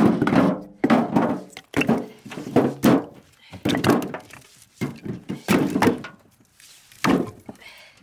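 Firewood being handled: a series of heavy wooden thunks, about one a second, each with a short ringing tail.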